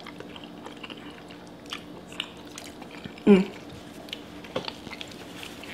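Close-up mouth sounds of a person chewing a mouthful of spaghetti in creamy sauce, with small wet clicks and a short 'mm' about three seconds in. A faint steady hum sits underneath.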